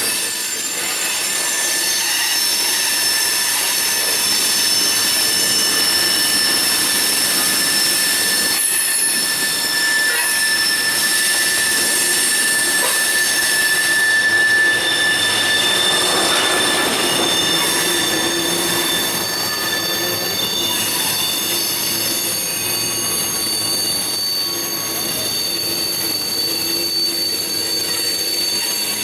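Passing freight train's steel wheels squealing against the rails, several high, shifting squeal tones over the continuous rolling noise of the cars.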